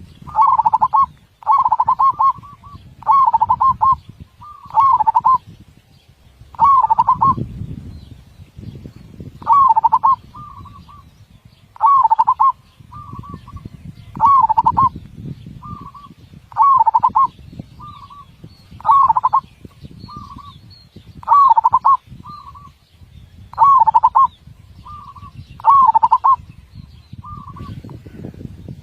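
Zebra dove (perkutut) cooing: a warbled coo phrase repeated about every two seconds, several followed by a shorter, softer note, over a low background rumble. The voice is described as big, with tightly set beats, the quality prized in perkutut song.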